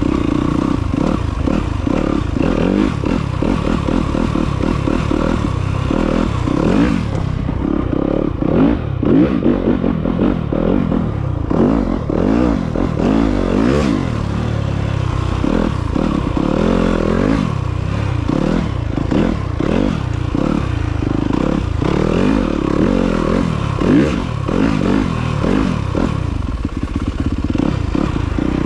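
Off-road motorcycle engine being ridden, its pitch rising and falling every second or so as the throttle opens and closes.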